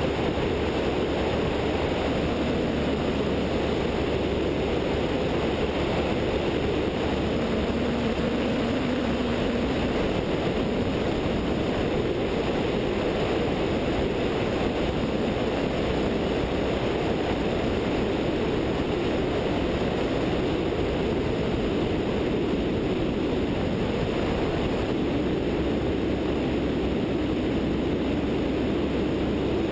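Continental O-200 engine and propeller of a Zenith light sport aircraft running steadily in cruise flight, heard from a wingtip-mounted camera with airflow rushing over it.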